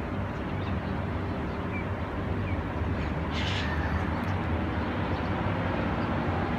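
Steady low outdoor rumble with seagulls calling faintly: a couple of short high chirps, then one short harsh squawk about three and a half seconds in.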